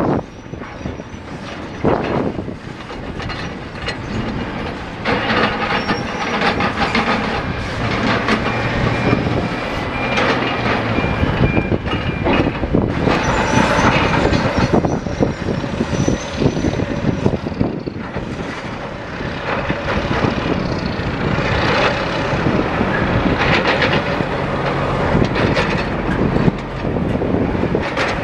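Heavy machinery loading armour stone onto a ship: engines running steadily under many knocks and clanks of rock and steel.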